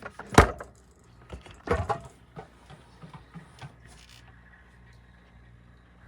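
Hard objects knocking together. There is a sharp knock about half a second in, then a clattering clunk near two seconds, followed by a few lighter taps.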